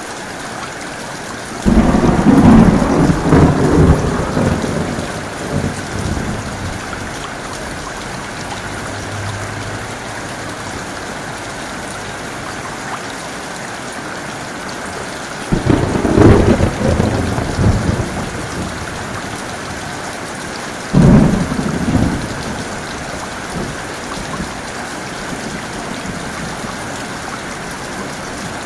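Steady heavy rain, broken by three claps of thunder that start suddenly and rumble away: a long one about two seconds in, another past the middle, and a shorter one soon after.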